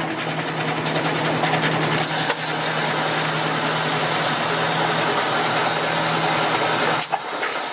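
Washing machine running with a steady hum and whir, the hum cutting off abruptly about seven seconds in while a thinner whirring noise carries on.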